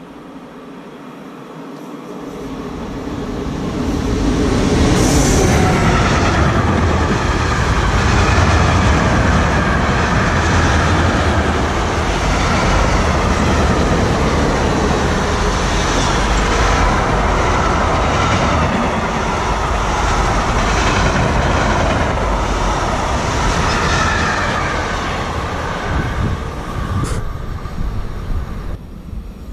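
Freight train of car-carrier and tank wagons passing close at speed: the rumble of its wheels on the rails builds over the first few seconds, stays steady and loud, then drops away near the end.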